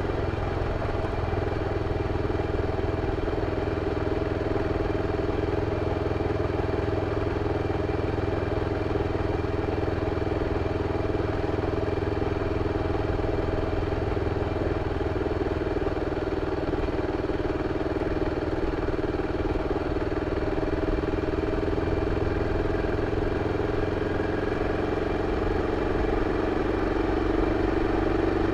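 BMW F 650 CS single-cylinder four-stroke engine running steadily through its original exhaust. Its pitch eases slightly lower near the end.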